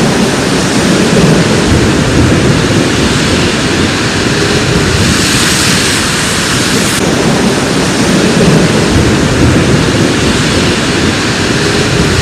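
Heavy thunderstorm: a loud, steady rush of rain and wind with a deep rumble underneath, turning hissier for a couple of seconds around the middle.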